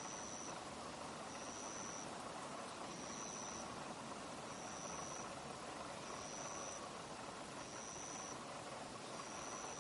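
Insect chirping: a high, thin chirp about three-quarters of a second long, repeated about every one and a half seconds, over a steady outdoor hiss.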